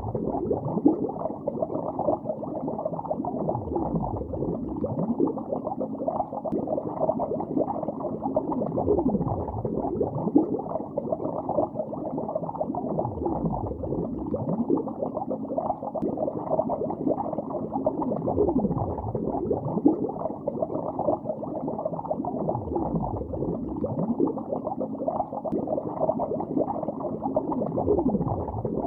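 Continuous bubbling heard underwater, muffled with no high end, with a deeper gurgle that sweeps down and back up in pitch about every four to five seconds.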